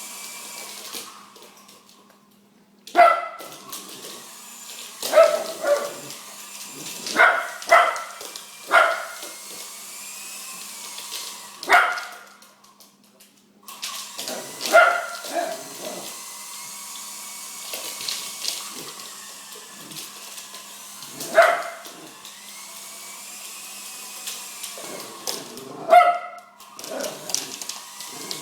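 Italian greyhound barking at a helicopter, single barks and quick pairs every few seconds. Under the barks a steady whine from the helicopter wavers slightly in pitch and stops twice.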